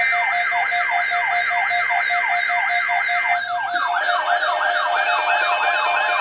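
Electronic siren tones overlapping: a fast yelp that sweeps down several times a second, a higher warble, and steady beeping tones, one of which stops about halfway through.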